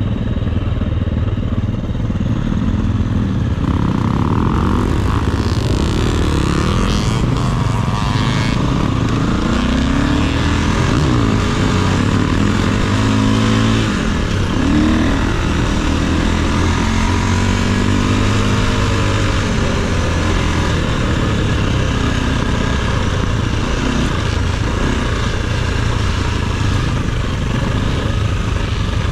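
Dirt bike engine running under changing throttle, its pitch rising and falling over and over as the bike is ridden on an enduro trail.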